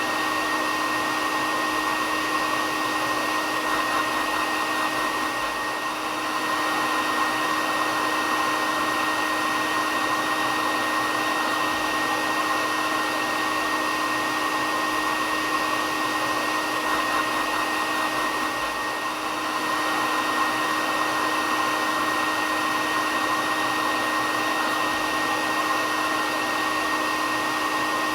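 Hair dryer running steadily, a continuous rushing blow with a steady whine, played as a white-noise sleep sound.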